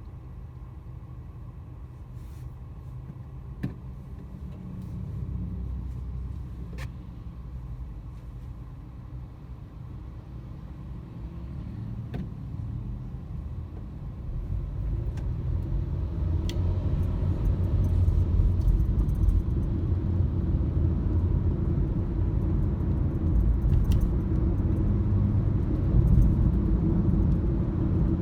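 Car driving, a steady low rumble of road and engine noise that grows louder from about halfway through, with a few sharp ticks here and there.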